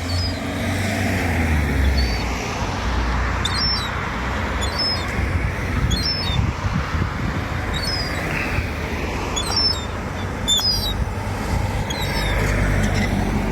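A juvenile gull giving short, high, thin begging peeps, repeated about every second or so, over a steady rushing background noise with a low rumble.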